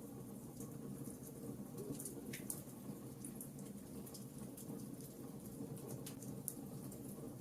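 Wood fire in a fireplace crackling: scattered small sharp pops and snaps over a steady low rumble of burning logs.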